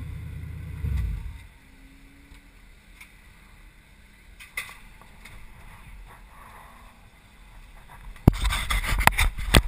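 1988 Mercedes 560SEL's V8 idling, swelling briefly and then shutting off about a second in. Afterwards only faint ticks, until loud knocks and rustling near the end from the in-car camera being handled.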